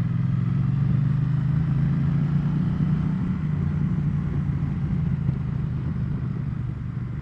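Triumph Bonneville T100 parallel-twin engine running at a steady cruise on the road. The engine note swells slightly about a second in, then eases off gradually.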